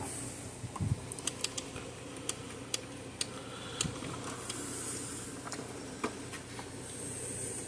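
Small clicks and taps of wiring and parts being handled while working inside an electric fence charger, with a couple of dull knocks in the first second and brief rustles, over a steady low hum.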